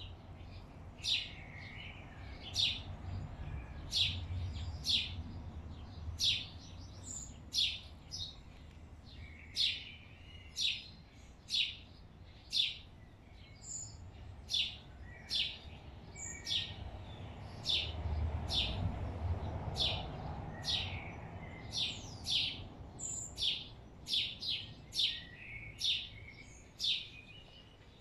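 A small songbird repeating a short, sharp chirp about once a second, a little faster near the end, over a low background rumble that swells twice.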